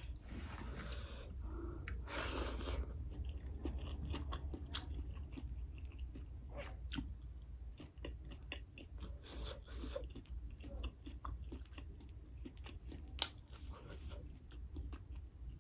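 Close-up mouth sounds of a person chewing rice and meat, with many small wet clicks and a few louder crunchy bites, over a faint steady low hum.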